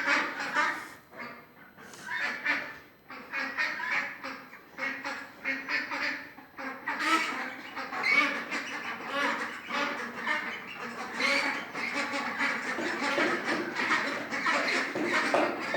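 A group of domestic ducks quacking continually, many short quacks in quick succession, as they come to their food.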